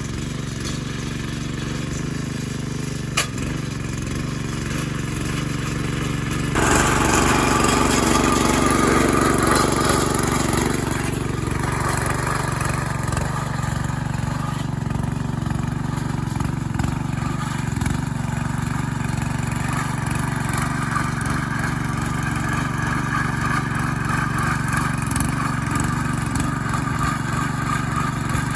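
An engine running steadily, getting louder and fuller about six and a half seconds in and staying so.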